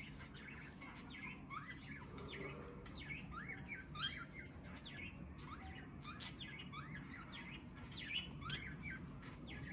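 Young bird chirping softly: many short chirps that rise and fall, a few a second.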